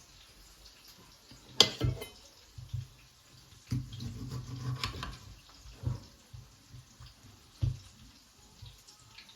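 Water running and dripping in a sink, with several sharp knocks and clatters; the loudest knock comes about one and a half seconds in.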